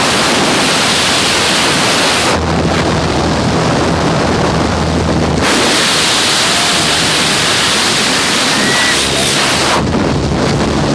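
Loud rushing wind buffeting the microphone at a skydiving aircraft's open door and in freefall. Twice, for a few seconds, the rush eases at the top and a low steady hum shows through.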